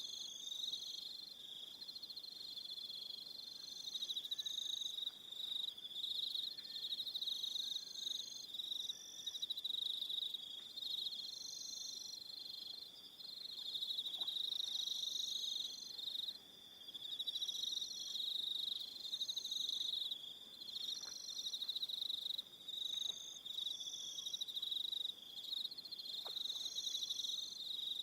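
Evening chorus of crickets: a steady high trill, with several shorter pulsed trills at higher pitches overlapping and coming and going every second or two.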